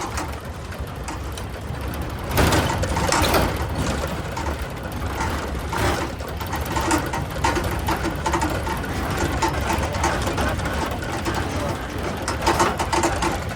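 A small engine running steadily, as heard from a vehicle on the move.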